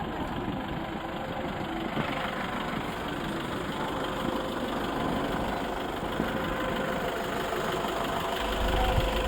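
A vehicle engine runs steadily, with a deeper low rumble coming in near the end.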